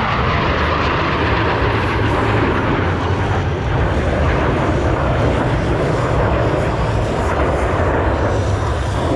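Blue Angels F/A-18 Super Hornet jets flying past with a loud, steady jet roar that holds without a break.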